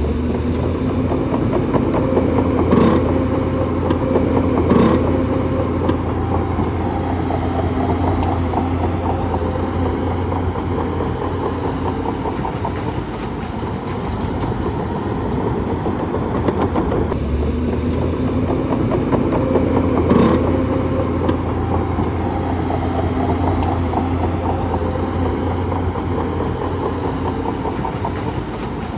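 Bulldozer's diesel engine running steadily, with a few sharp knocks about three and five seconds in and again near twenty seconds.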